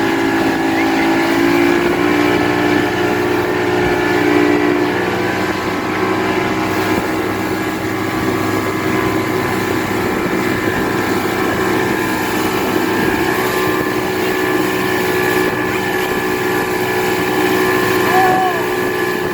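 Motorboat engine running steadily while the boat is underway: a steady hum made of several held tones, which shift slightly about five seconds in.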